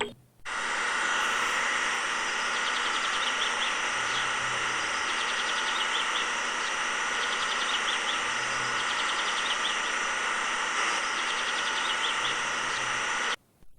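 A steady mechanical whirring that starts suddenly and cuts off suddenly near the end, with small chirps recurring over it.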